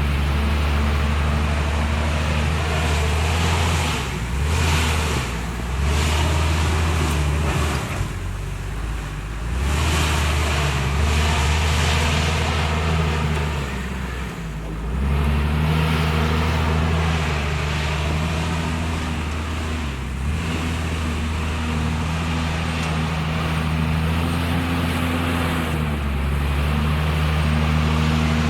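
Heavy diesel engine of a JCB 432ZX loader running under working load, its note dropping and rising again a few times as the machine works.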